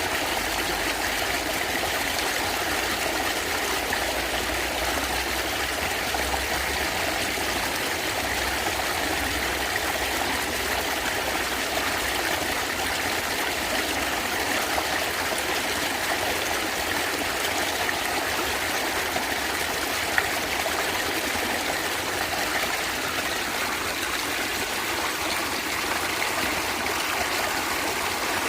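Natural stream water flowing and gurgling steadily.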